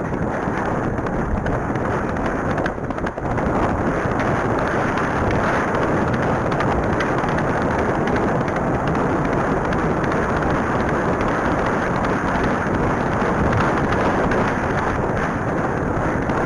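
Heavy wind buffeting on the microphone of a rider galloping fast on a horse: a loud, steady rushing noise that covers any hoofbeats, rising slightly in the first few seconds.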